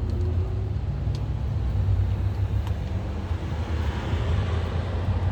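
Steady low rumble of road traffic, with a passing vehicle swelling up about four seconds in, and a few faint clicks.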